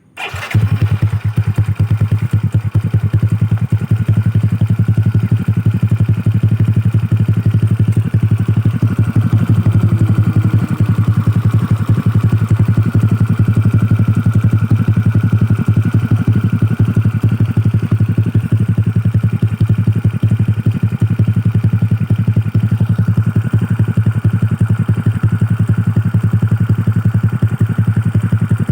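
150cc automatic scooter starting and then idling steadily through a Lone Rider CMMS round aftermarket silencer, with a deep, bassy exhaust note.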